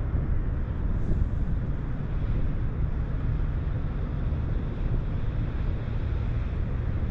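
Wind buffeting the microphone: a steady, flickering low rumble with a hiss over it.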